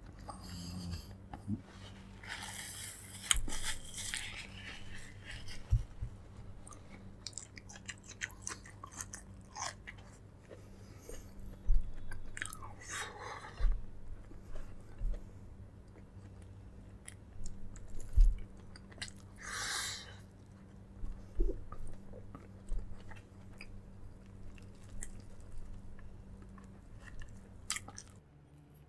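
Close-miked chewing and mouth sounds of a person eating, with a few soft knocks. A steady low hum runs underneath and stops near the end.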